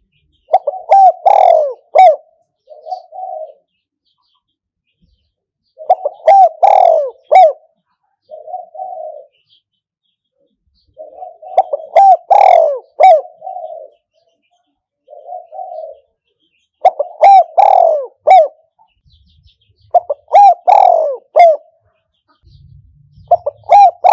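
Decoy spotted dove cooing. It gives a phrase of several quick coos about every five seconds, and most phrases are followed by a shorter single coo.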